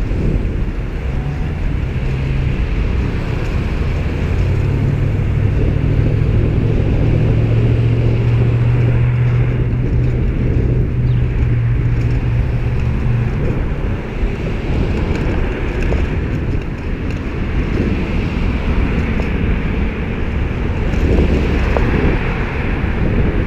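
Road traffic going by on a busy street, heard from a moving bicycle with wind rushing over the microphone; a steady low engine hum from a motor vehicle runs through the first half and stops a little past the middle.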